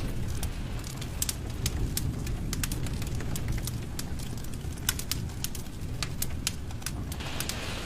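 Fireplace wood fire burning: a low steady rumble of flames with frequent sharp crackles and pops. A soft hiss comes in near the end.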